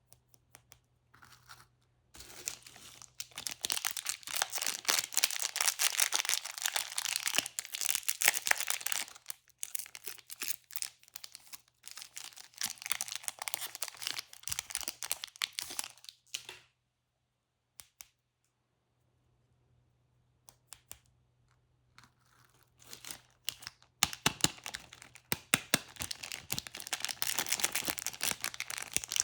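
Candy wrapper crinkling and being torn open in two long stretches of dense crackling, with a pause of several seconds between them.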